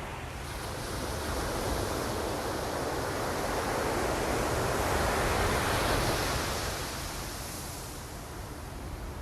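Ocean surf: a wave swells to its loudest around five or six seconds in, then washes out and fades near the end.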